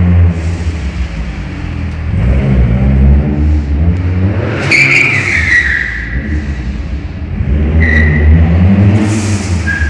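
Ford Sierra Cosworth's turbocharged 2.0-litre four-cylinder accelerating hard and revving up and down repeatedly inside a concrete parking garage. About five seconds in there is a loud tyre squeal that falls in pitch, and shorter squeals come near the end.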